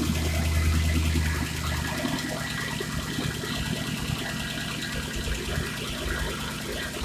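Mercedes-AMG CLS63 V8 engine idling with the hood open. Its low hum eases down about a second and a half in, then holds steady.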